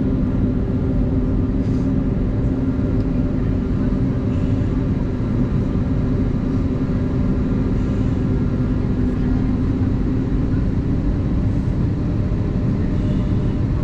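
Airbus A320neo jet engines running steadily, heard inside the passenger cabin as an even rushing hum.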